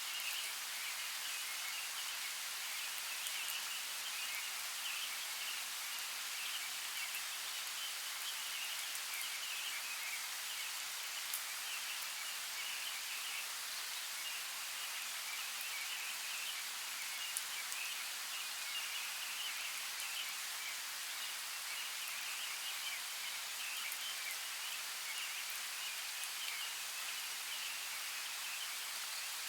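Steady rush of a flowing forest creek, an even water noise that does not change, with a couple of brief sharp ticks.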